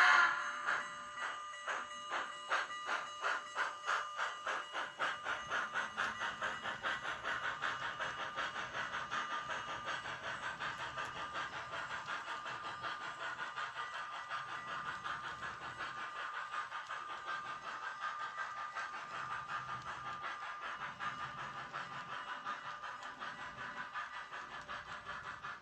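Kato GS4 model steam locomotive's DCC sound decoder playing steam exhaust chuffs as the engine gets under way: the chuffs start slow and quicken over the first several seconds into a steady, rapid beat.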